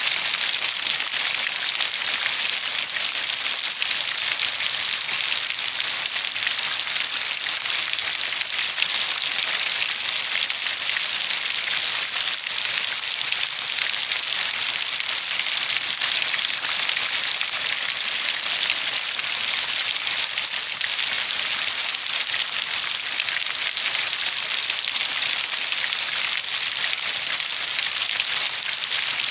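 Steady, heavy rainfall: a dense, even hiss of drops pattering on a surface.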